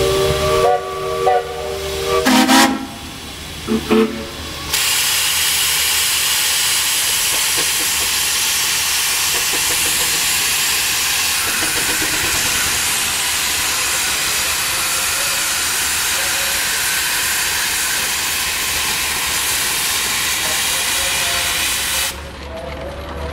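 Steam traction engine's whistle sounding a few held toots and short blasts, then a long, loud, steady hiss of steam blowing out that cuts off suddenly near the end.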